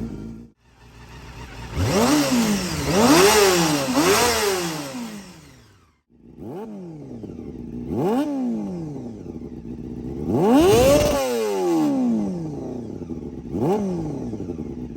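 Honda CBR250RR motorcycle engine revved through the exhaust in about seven quick throttle blips, each pitch rising sharply and falling back to idle, with two brief drops to silence about half a second and six seconds in.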